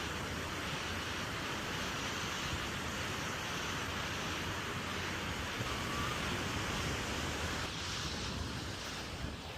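Steady rushing noise of ocean surf and wind, the wind also catching the microphone; the sound shifts slightly about eight seconds in.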